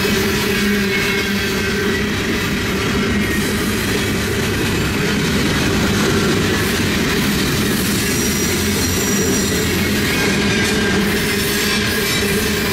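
Cars of a long CN freight train rolling steadily past, wheels running over the rails with a faint high squeal in the later seconds.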